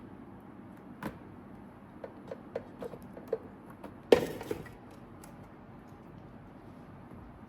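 Kitchen handling sounds: a click about a second in, a string of light taps and knocks, then one louder knock with a brief ring just after four seconds, as objects are handled and set down.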